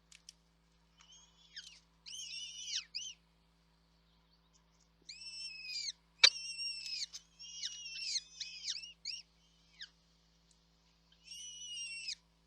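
Birds at a nest calling in clusters of short chirps that rise and fall in pitch, with breaks of near quiet between the clusters. A single sharp click comes about six seconds in.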